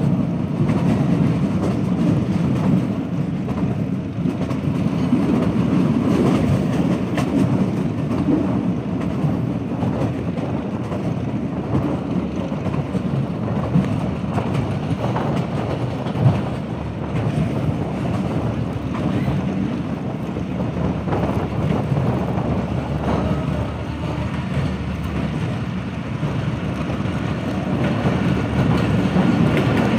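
Diesel-hauled passenger train running along the track, heard from aboard: a steady low rumble of wheels on rail, with two sharp knocks near the middle.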